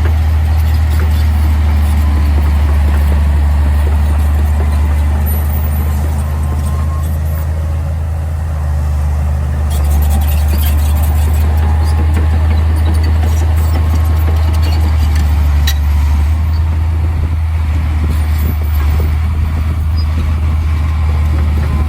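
Heavy diesel engine of earthmoving machinery running steadily with a deep hum, with a few faint clicks here and there.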